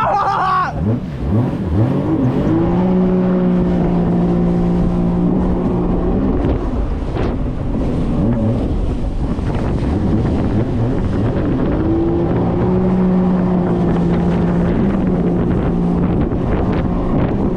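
1800cc jet ski engine at speed, its note climbing as it accelerates and then holding steady, easing off in the middle and settling on a steady high note again later, over a heavy rush of wind on the microphone and water.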